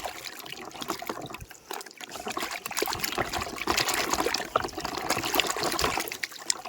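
Water splashing and trickling as a muddy toy JCB is washed by hand, with many small clicks and knocks. It gets louder about two and a half seconds in.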